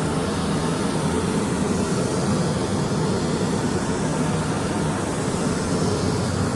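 Steady machine running noise with an even hiss above it, no change in pitch or level, from compressed-air spray-painting equipment.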